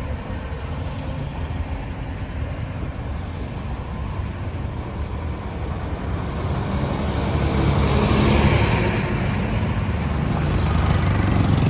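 Road traffic noise: a steady low engine rumble, with a vehicle passing close and loud about eight seconds in and another coming up near the end.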